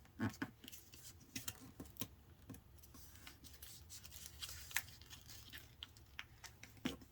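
A sheet of printer paper being folded and creased by hand: faint rustling with scattered sharp crackles and clicks.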